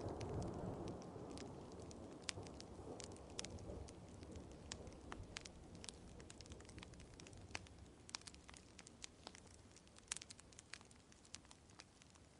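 Wood fire crackling with sharp, scattered pops, over a low thunder rumble that dies away during the first few seconds, with faint rain underneath.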